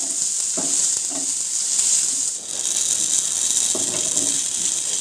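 Sliced onions, cashews and whole spices sizzling in oil in a nonstick frying pan over a low gas flame while a wooden spatula stirs them; a steady hiss that dips briefly about halfway through.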